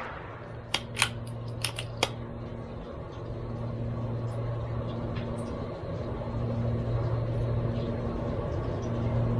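Bolt of a CZ 457 .22LR rifle being cycled between shots: five or so sharp metallic clicks between one and two seconds in. A steady low mechanical hum, slowly growing louder, runs underneath.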